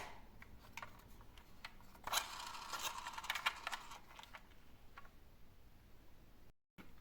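Light clicks and rattling of small plastic toy vehicles being handled, with a denser stretch of scraping rattle from about two seconds in to about four and a half.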